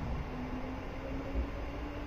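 Kintetsu electric train running at a station platform: a low rumble with a faint steady tone that rises slightly in pitch.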